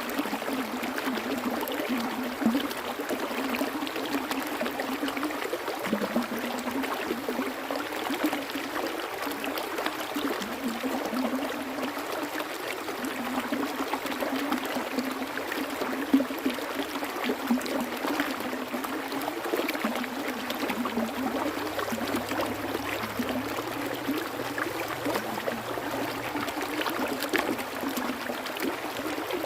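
Water flowing in a natural stream: a steady, unbroken rush with small trickling and splashing flecks through it.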